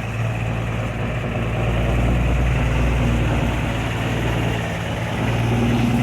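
Heavy truck engine running steadily with a low rumble. It grows louder about two seconds in and eases briefly near the end.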